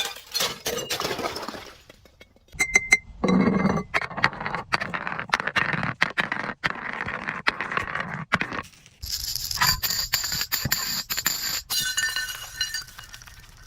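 Glass bottles being crushed and broken: a dense run of cracks, crunches and clinking shards, in several short segments that cut abruptly from one to the next, with bright ringing glass tones in the later part.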